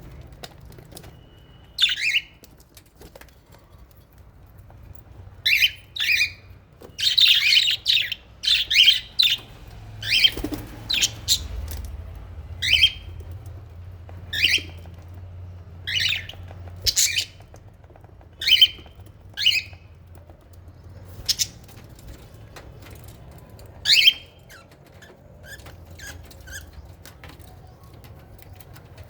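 Small pet parrots calling: a string of short, loud, shrill calls, most dropping in pitch, about one every second or two, crowding together for a few seconds about a quarter of the way in.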